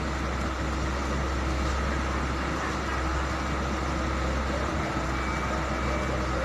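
Container truck's diesel engine running steadily, an even low drone.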